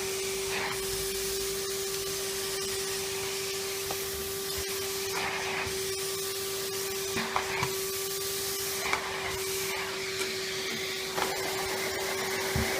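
Henry vacuum cleaner running on high power, a steady whine over a rushing hiss of air, with a few brief rattles as debris is sucked in.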